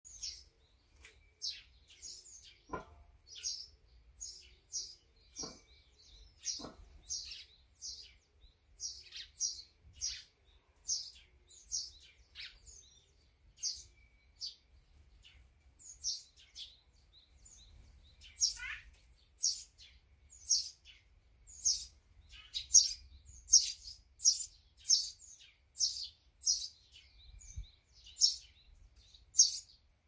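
A small songbird chirping: a steady run of short, high chirps, roughly one and a half a second, growing louder about halfway through.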